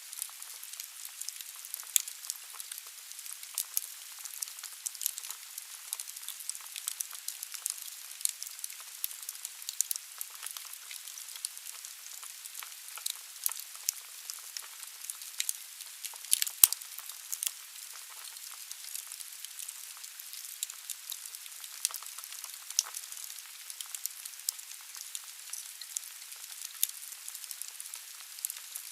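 Wood burning in a fireplace: a steady hiss with frequent sharp crackles and pops from the logs, one pop louder than the rest about two-thirds of the way through.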